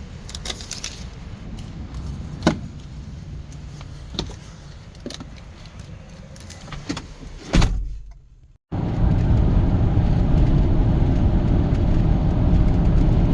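Road noise of a moving van, heard from inside: a low, steady rumble with a few scattered sharp clicks. It breaks off for a moment about eight seconds in, then comes back as a louder, even road rumble.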